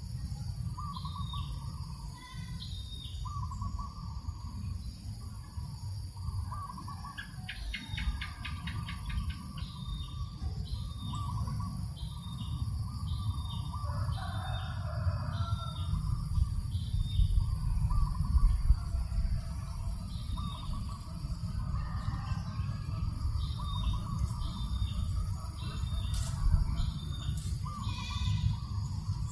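Several birds calling outdoors: short high calls repeat about once a second, lower calls repeat throughout, and a rapid trill comes about eight seconds in. Under them runs a steady low rumble of breeze on the microphone.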